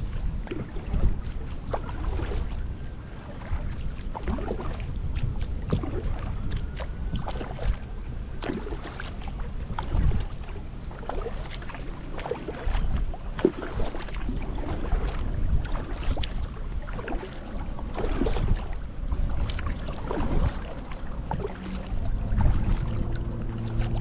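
Kayak paddle strokes splashing and dripping in the water at an uneven pace, over a low wind rumble on the microphone. A steady low hum joins near the end.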